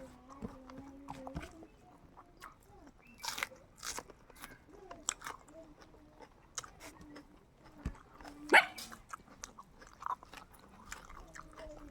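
Chicken being chewed and bitten close to the microphone: wet chewing with scattered crisp cracks, the loudest crack about eight and a half seconds in.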